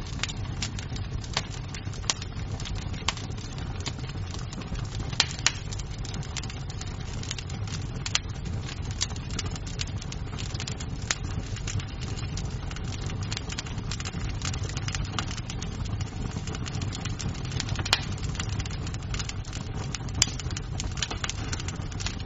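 Wood fire crackling in a fireplace: a steady low rumble of flame with irregular snaps and pops of burning wood, and a handful of louder pops scattered through.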